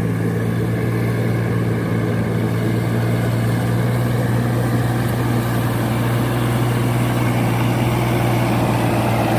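Tractor engine running steadily at constant speed, a low even hum.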